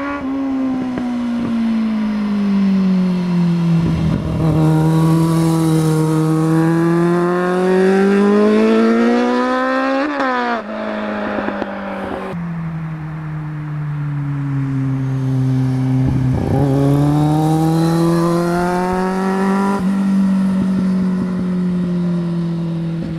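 A 2010 Kawasaki Z750's 748 cc inline-four engine being ridden hard, its revs falling and climbing several times. Near ten seconds in the revs peak and drop suddenly, and they climb again towards the end.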